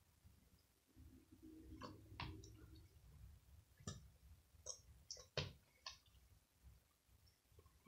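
Slime being kneaded and stretched by hand, giving off faint, scattered clicks and small pops as air pockets break.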